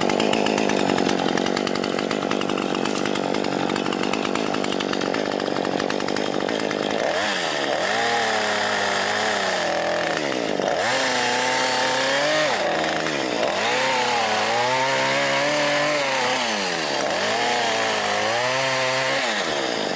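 A motor-driven tool running steadily, then from about seven seconds in its pitch repeatedly sags and recovers, roughly every two seconds, as it is loaded and eased off.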